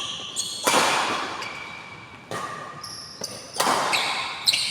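Badminton rally in a hall: four sharp racket hits on the shuttlecock, about one to one and a half seconds apart, each echoing, with short high shoe squeaks on the court floor in between.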